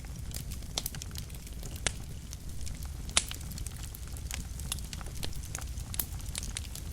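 Wood fire in a fireplace crackling, with irregular sharp snaps and pops over a low steady rumble of the flames; the loudest snap comes about three seconds in.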